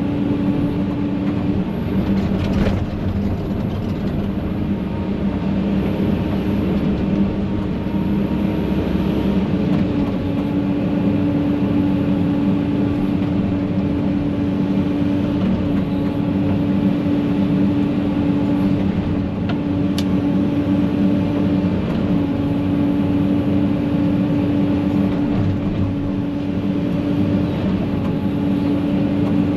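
Heavy equipment's diesel engine running steadily under load while the machine rakes brush debris, with a faint clank or two.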